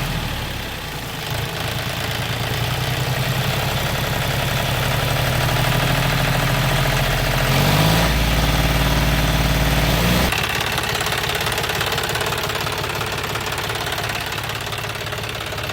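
Small engine running steadily, picking up speed about eight seconds in and dropping back a couple of seconds later.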